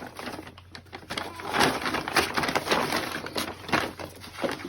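A bag crinkling and crumpling in irregular bursts as a dog jumps and paws on it.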